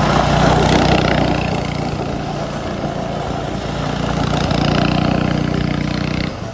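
Small gas engine of a mini bike or go-kart running, revving up near the start and again about four to five seconds in, then cutting off suddenly near the end.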